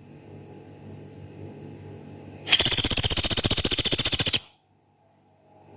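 Pelatuk beras, a small pygmy woodpecker, giving one long, harsh, high-pitched rattle of rapid even notes, about two seconds long, starting about halfway in.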